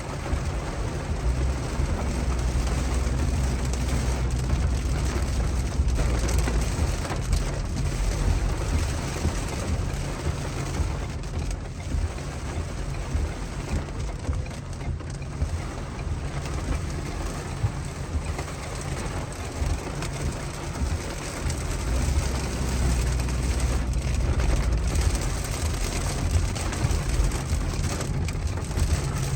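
Road and engine noise inside a moving car's cabin: a steady low rumble under a rushing hiss, the rumble swelling for a few seconds near the start and again near the end.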